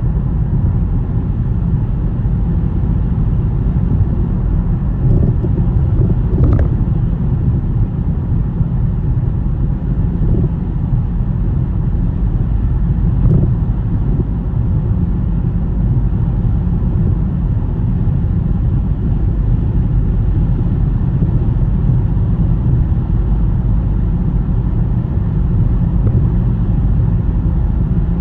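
A car driving through snow: a steady low rumble of tyres and engine, with a couple of faint brief knocks.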